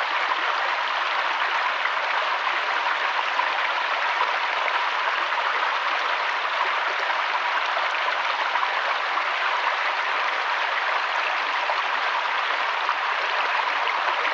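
Steady rush of flowing water, an even hiss with no tune, rhythm or separate drops.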